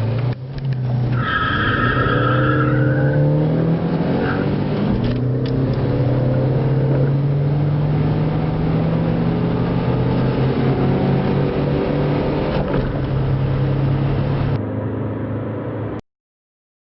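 Car engine accelerating hard from a standstill through the gears, its note climbing and dropping back at each shift, with tyre or whistle noise early on; the sound cuts off abruptly near the end.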